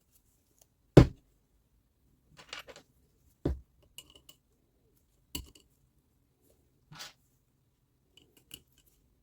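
Workbench handling noise from work on a reciprocating saw: scattered clicks and knocks of tools and parts being picked up and set down, with a sharp knock about a second in and three softer ones spread over the following seconds.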